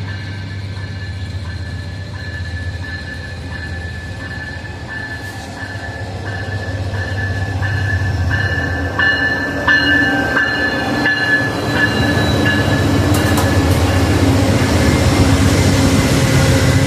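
A train rolling slowly on the station tracks, its wheels squealing in a high, on-and-off tone over a steady low rumble. The rumble grows louder through the second half, with a few sharp knocks partway through.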